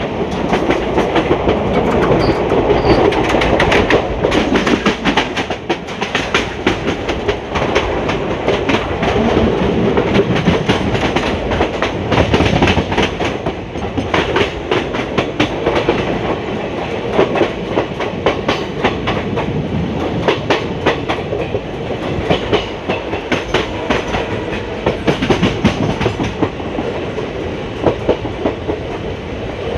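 Indian Railways ICF passenger coach running along the track, its wheels beating out a rapid clickety-clack of sharp clicks over a steady rumble of the running gear.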